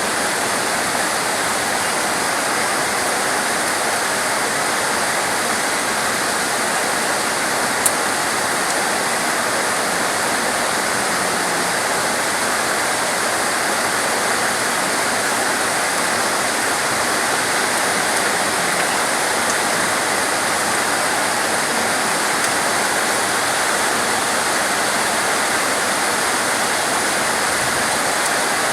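Steady heavy rainfall, a dense even hiss that does not change. One brief click about eight seconds in.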